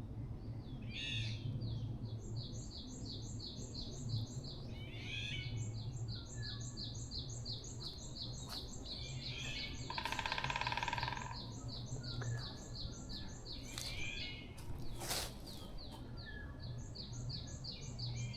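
Forest birds singing: one bird repeats a high note several times a second in long runs with short breaks, while others give short sliding calls. About ten seconds in a harsher, buzzier call lasts about a second, over a steady low hum.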